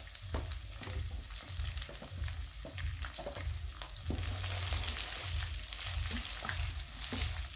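Cauliflower sizzling as it fries in oil in a frying pan, stirred with a wooden spatula that clicks and scrapes against the pan. The sizzle grows louder about four seconds in as potato cubes go in, and a low rumble pulses underneath.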